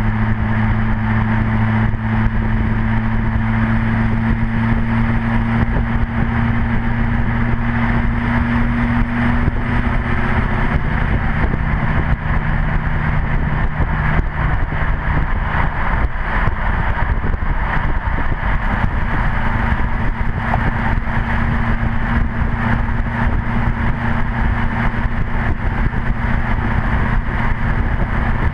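LMM Duramax 6.6 L turbo-diesel V8 running through a 4-inch straight pipe with the cat, DPF and muffler deleted and the exhaust dumped over the rear axle, picked up by a camera mounted on the truck. It is a steady exhaust drone whose pitch shifts about ten seconds in, with a rushing noise through the middle stretch.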